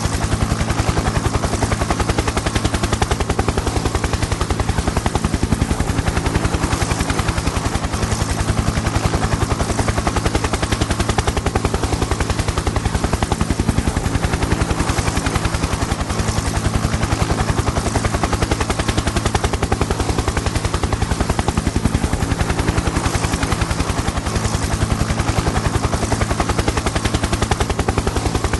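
Helicopter in flight: the rotor blades chop rapidly and evenly over a steady low engine drone, at a constant loud level.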